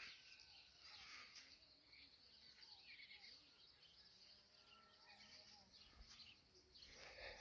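Near silence, with scattered faint bird chirps.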